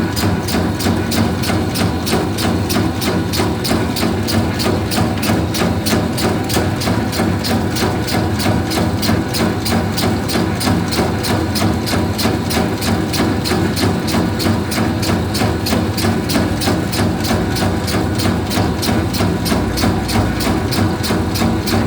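Motorised bakso (meatball) forming machine running steadily: a constant motor hum under rapid, even clacking at about three to four strokes a second.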